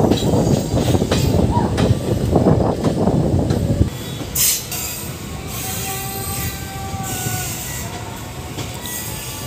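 Passenger train coach rumbling and clattering heavily over the track for about four seconds, then the noise drops suddenly and the train runs on more quietly with a short hiss and thin high wheel squeal as it approaches the junction.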